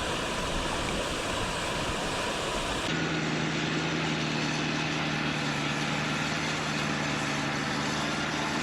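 A steady, loud rushing noise. About three seconds in the sound changes abruptly, and a running engine's steady drone sits under the rush from then on.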